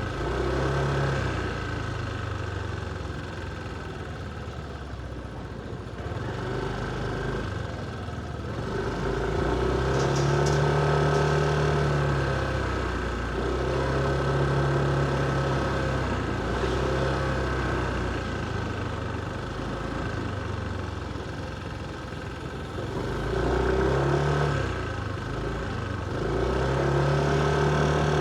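Motorcycle engine heard from the rider's seat. Its note rises, holds and falls back several times as the bike accelerates and eases off, over steady road noise.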